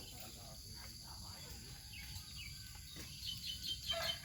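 Steady high-pitched insect chirring with a few faint ticks, and a quick run of short high chirps near the end.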